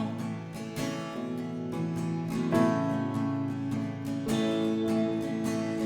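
Live Americana band playing an instrumental passage between sung lines of a slow song, with acoustic guitar strumming chords that change every second or so.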